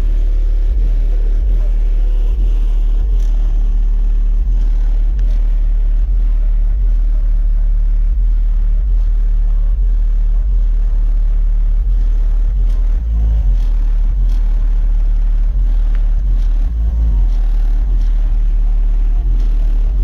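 Two Skar ZVX 18-inch subwoofers in a ported box, driven at 1 ohm by an SKV2 3500.1 amplifier, playing loud, deep bass that pulses without a break.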